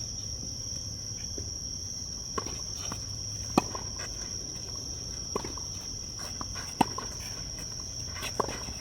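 Tennis rally: five sharp racket-on-ball strikes, about one every one and a half seconds, the loudest about a third of the way in and again past the middle. Underneath runs a steady high-pitched drone of insects.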